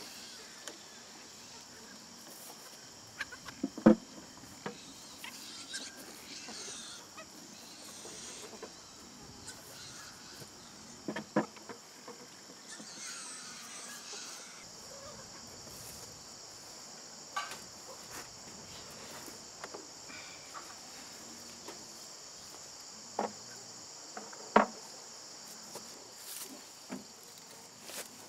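Steady high-pitched insect chorus of crickets, with a few sharp knocks and occasional hen calls.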